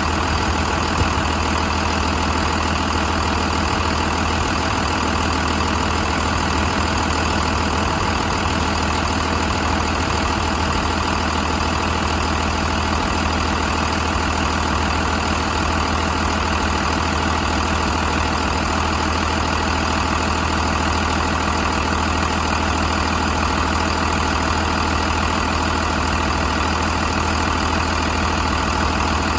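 2000 Cummins B5.9 inline-six diesel engine idling steadily, with an even, unchanging note.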